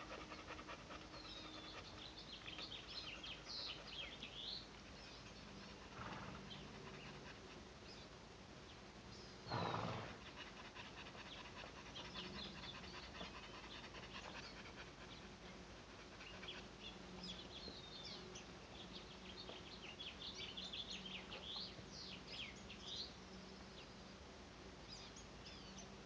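Outdoor birdsong: small birds chirping and singing in short, quick phrases that come in clusters. One short, louder noise stands out about ten seconds in, and a faint steady low hum runs underneath.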